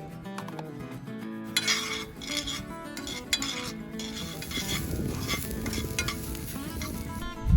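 Utensil stirring and scraping uncooked rice around a cast-iron skillet, the rice rattling and sizzling in the hot oil as it toasts for paella.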